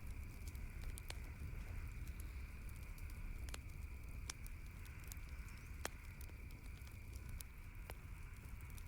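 Wood fire crackling, with irregular sharp pops about once a second over a steady low rumble and hiss.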